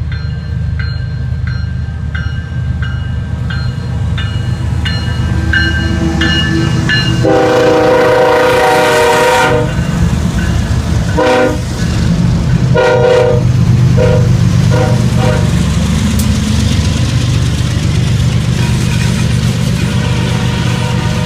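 Diesel freight locomotive approaching with a low engine rumble while a bell rings steadily. Its air horn then sounds one long blast and several shorter blasts.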